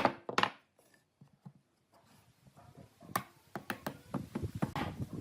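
Workshop handling of wood and tools: a few sharp taps, a pause of near silence, then soft rubbing with scattered light knocks.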